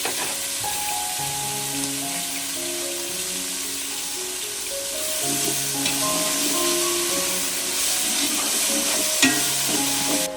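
Food frying in a hot pan, a steady sizzle that cuts off abruptly at the end, with a sharp knock about nine seconds in. Light background music plays underneath.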